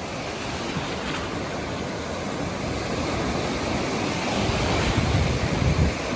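Ocean surf breaking and washing on a beach: a steady rush of noise, with a low rumble swelling from about four seconds in.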